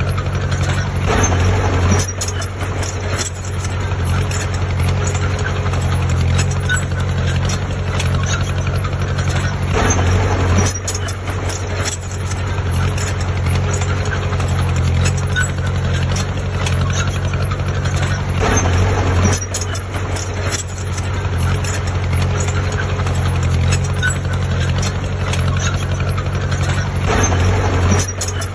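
Heavy diesel construction machine running steadily, with scattered clanks and clicks over the engine drone; the sound dips briefly about every eight to nine seconds.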